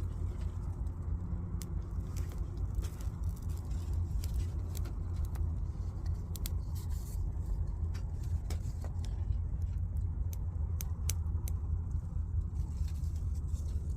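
Wood fire crackling in a lightweight folding fire stand, with sharp pops scattered irregularly throughout over a steady low rumble.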